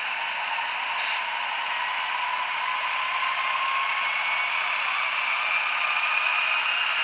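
Simulated diesel-locomotive dynamic brake sound from a RailPro sound decoder in an HO-scale SD40T-2 model, played through two small sugar cube speakers: a steady hissing whine whose tone slowly rises in pitch. A brief higher hiss sounds about a second in.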